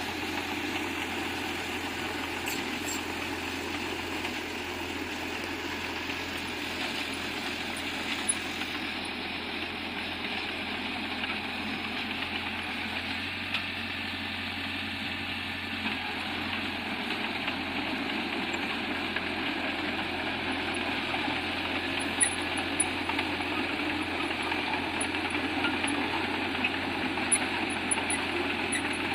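Komatsu bulldozer's diesel engine running steadily, with a few sharp knocks in the second half.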